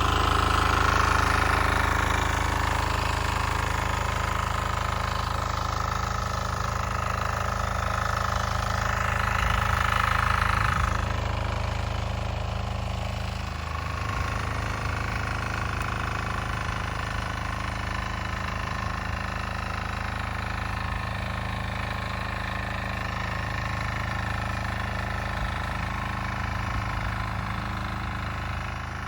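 Weima single-cylinder diesel walk-behind tractor engine running steadily. It is louder for about the first eleven seconds, then drops slightly and carries on evenly.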